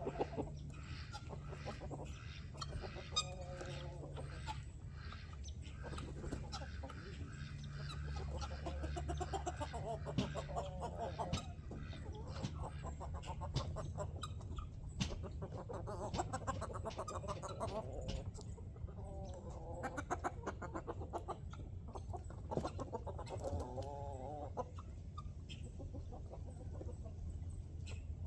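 Chickens clucking, several drawn-out calls rising and falling in pitch, over many short ticks and a steady low hum.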